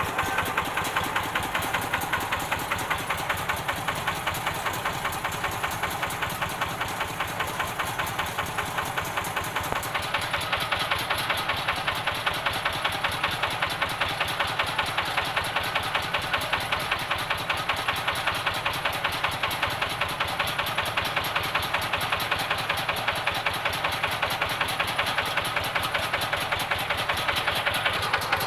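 Rice-field tractor engine idling steadily while warming up, with an even, knocking beat of firing strokes.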